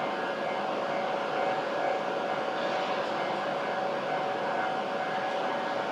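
Hokuriku Shinkansen trainset running slowly into a station platform: a steady hum and rumble with a few held whining tones, without change.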